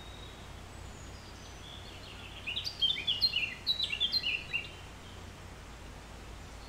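A bird chirps a quick run of short, falling notes about two seconds in, lasting about two seconds, over a steady low hum.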